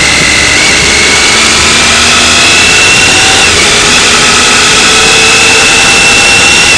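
Motorcycle engine running steadily under way, its note drifting slightly up and down, under a loud rush of wind on the microphone.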